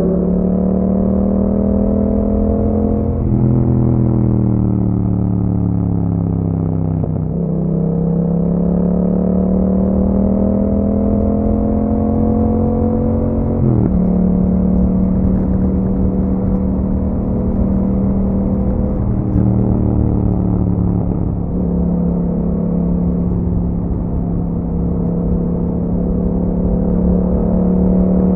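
Yamaha MT-07's parallel-twin engine through an Akrapovic exhaust with dB killers fitted, heard while riding: it pulls up in revs, eases off, then climbs steadily. It drops sharply in pitch at a gear change about halfway through and settles to a steady cruise.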